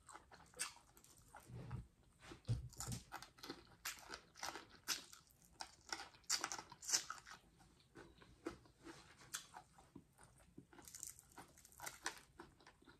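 A person chewing and crunching food close to the microphone: faint, irregular crunches and mouth clicks.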